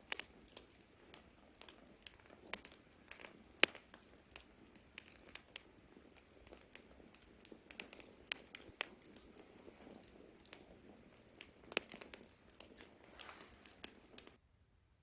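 Campfire burning wood, crackling with irregular sharp pops and snaps over a soft, steady crackle. The sound cuts out for about a second near the end.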